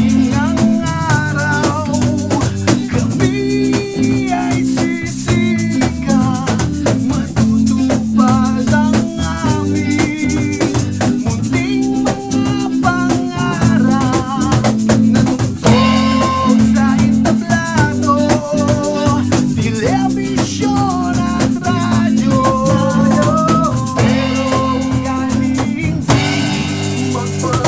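A small band playing an acoustic pop-rock song live: strummed guitar, bass and drums, with a shaker keeping a steady rattle and a wavering melody line over the top in phrases.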